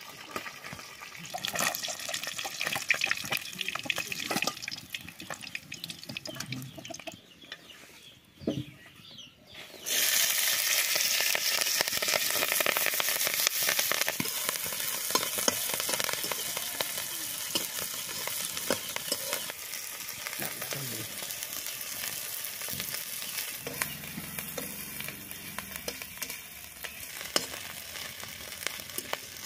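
Chopped onion-flower stalks frying in hot oil in a wok, sizzling with the scrape and clicks of a metal spatula stirring them. The sizzle jumps suddenly much louder about ten seconds in and then keeps going steadily, easing off a little towards the end.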